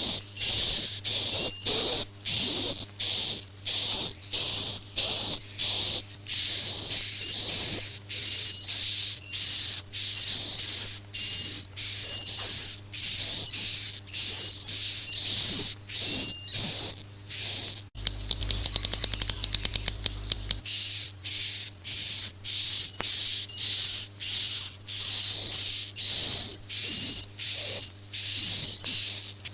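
Edible-nest swiftlet calls played as a swiftlet-house roosting lure ('suara inap'): a fast series of short high chirps, about two a second, with a stretch of rapid buzzy clicking about two-thirds of the way through.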